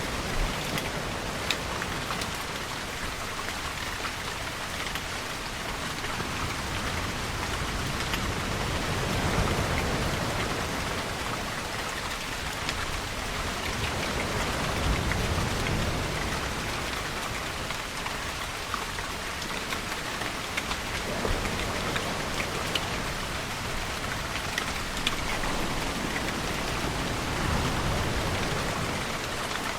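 Steady heavy rainfall with fine pattering drops, with slow swells of ocean waves rising and falling every several seconds underneath.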